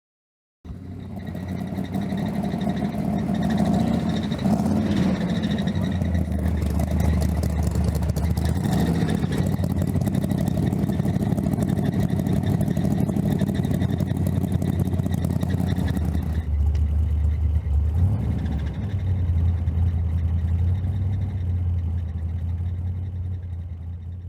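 A car engine running steadily, starting suddenly just under a second in, changing in tone about two-thirds of the way through and fading out at the end.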